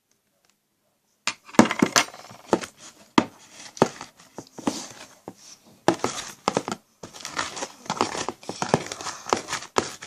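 Homemade glue-and-borax slime being squeezed and pulled by hand, a dense run of sticky crackles and pops that starts suddenly about a second in. The slime is still sticking to the hands.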